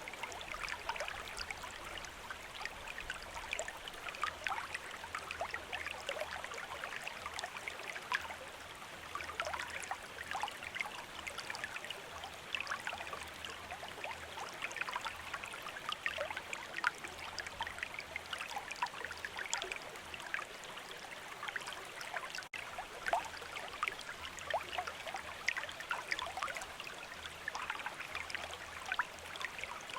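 A shallow stream running, with a steady babble of water and many small, irregular splashes and gurgles.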